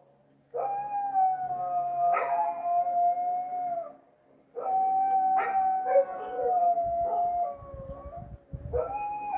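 A dog howling: three long, drawn-out howls, each starting a little higher and sinking slightly in pitch, with short breaks between them.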